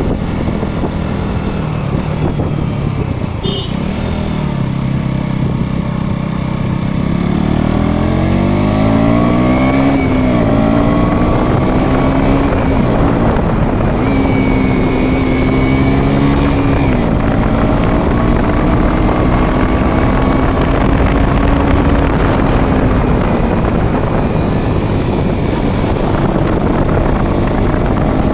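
Motorcycle engine running while being ridden, its note climbing as it accelerates about a quarter of the way in, then holding at a fairly steady pitch.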